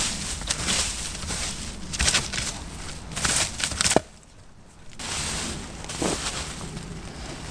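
Rustling and knocking of branches and forest-floor material being handled to build a shelter, with a sharp crack about four seconds in.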